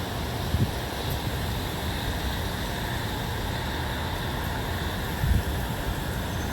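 Steady outdoor wind noise with a low, uneven rumble. Gusts buffet the microphone briefly about half a second in and again about five seconds in.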